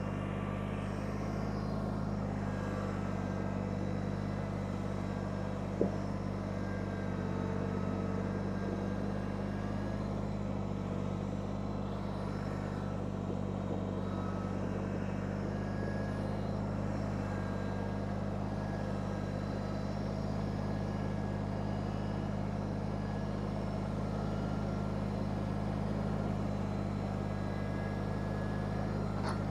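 Kubota subcompact tractor's diesel engine running at a steady speed, an even drone that holds its pitch throughout, with one short click about six seconds in.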